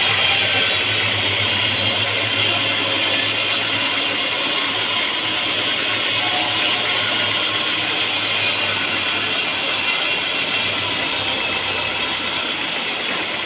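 Sawmill machinery running: a loud, steady mechanical clatter over a low engine hum, the high hiss thinning near the end.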